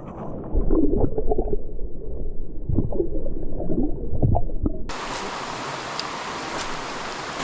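Muffled underwater sloshing and bubbling in a creek, picked up by a submerged camera microphone. About five seconds in it cuts abruptly to the steady rush of flowing creek water heard above the surface.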